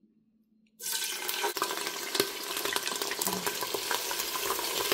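Blended pepper paste sizzling and crackling in hot palm oil in a pot while it is stirred with a spoon. The sizzle starts suddenly about a second in and then runs steadily.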